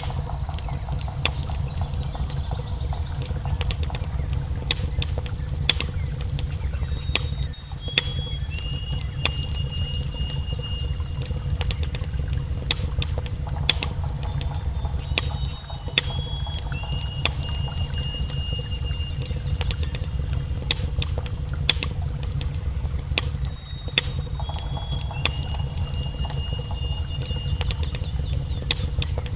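Fireplace fire crackling and popping over a steady low rumble, with a thin high whistle that steps down in pitch. The same stretch of sound repeats about every eight seconds.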